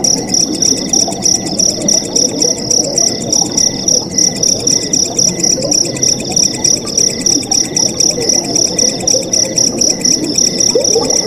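Night crickets chirping in a steady, fast, high trill, with other insect calls repeating in short phrases and pulses, over the constant gurgle of flowing water.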